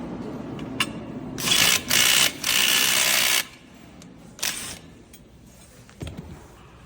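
Short bursts of a power tool on a coffee-grinder assembly line: three runs close together, then a shorter one about a second later, with light clicks of handling between them.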